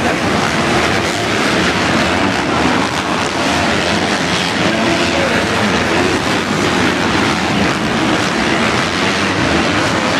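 Several motocross motorcycle engines running together during a race, a loud, steady, dense engine noise.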